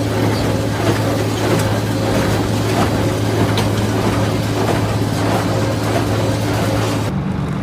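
Tractor and hay baler working: a steady, loud engine drone with mechanical noise. The sound changes abruptly to a different hum near the end.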